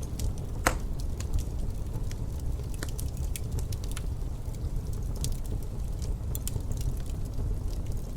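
Wood fire crackling in a fireplace, with scattered small pops and one sharper pop about a second in, over a steady low rumble of wind.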